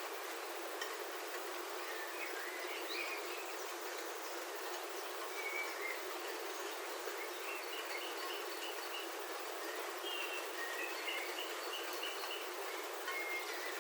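Rain falling steadily on a roof, heard from inside, with birds chirping outside in short calls, some as quick runs of repeated notes.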